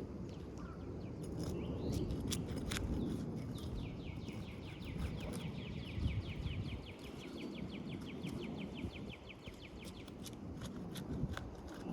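A bird sings a rapid, even trill of about ten notes a second for roughly four seconds in the middle, over a low rumble and scattered sharp clicks and taps.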